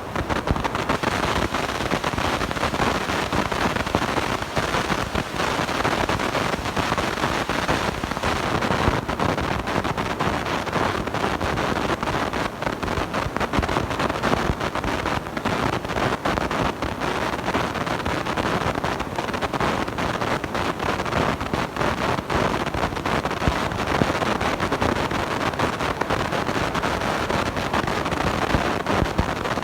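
Blown-out, overdriven microphone giving a loud, steady, distorted rush of noise full of fine crackles, like heavy wind on the mic.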